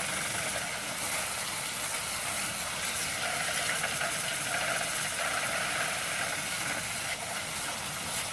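Garden hose spraying a steady jet of water into a box fan's motor to spin it and flush out WD-40, grease and grime.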